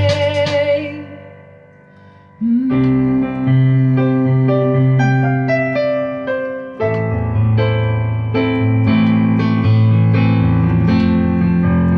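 Electric keyboard playing sustained piano-like chords with no singing. The sound dies away about a second in and nearly stops, then a new chord comes in at about two and a half seconds and another near seven seconds.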